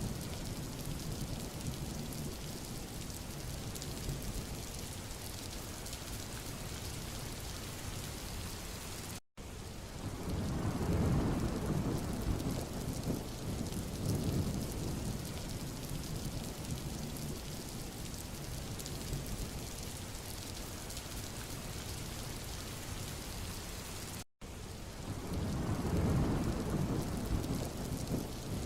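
Steady rain falling on a road, with wind through trees; low rumbling swells rise about ten seconds in and again near the end. The sound cuts out for an instant twice, about fifteen seconds apart.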